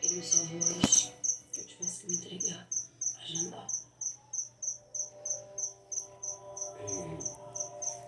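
Crickets chirping steadily, about three chirps a second, with a single sharp knock about a second in and some soft scuffling movements.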